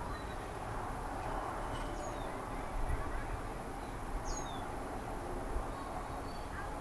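A few short, high bird chirps, the clearest a quick falling one about four seconds in, over a steady background noise.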